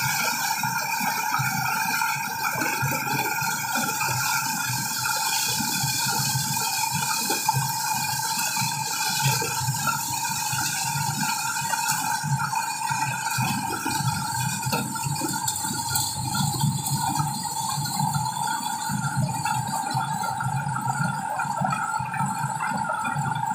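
Corn sheller machine running with a steady whine and a continuous rattle.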